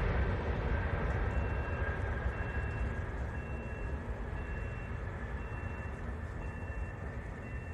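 Jet airliner engines fading away after a pass: a low rumble with a steady whine, slowly getting quieter. A short high beep repeats about once a second from about a second in.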